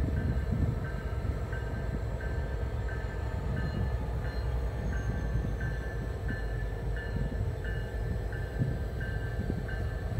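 Norfolk Southern freight train approaching, a steady low rumble, with a bell ringing evenly about one and a half strokes a second.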